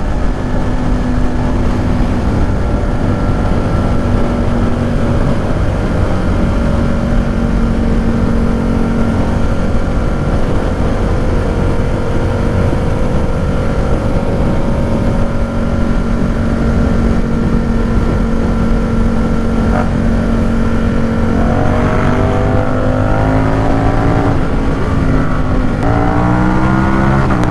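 Ducati Supersport 950 S's 937 cc L-twin engine through an aftermarket exhaust, heard from the bike at road speed: a steady cruising note over wind rush, then the engine pitch climbs under acceleration twice near the end.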